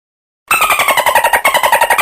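A short sound effect: a fast, even rattle of clicks carrying a pitched tone that slides downward, jumps back up about halfway through and slides down again, starting about half a second in and cutting off abruptly.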